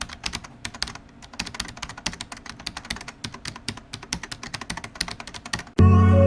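Rapid, irregular keyboard-typing clicks, like a typing sound effect. Near the end, loud music with sustained keyboard chords cuts in suddenly.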